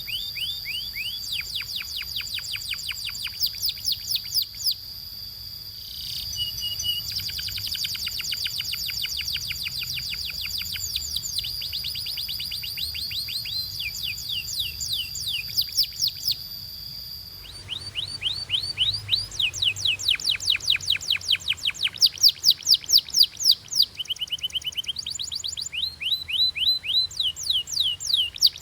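Domestic canary singing: fast trills of rapidly repeated high sweeping notes over a long held whistle, changing abruptly to a new run of louder repeated notes a little past halfway.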